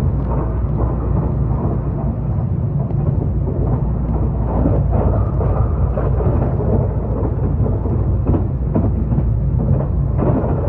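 Taiwan Railway EMU3000 electric multiple unit passing at speed: a steady, heavy rumble of wheels on rails, with slight surges.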